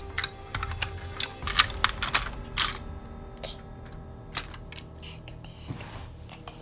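Rapid, irregular clicking and clattering of small plastic toy pieces being handled, thickest in the first couple of seconds and sparser after.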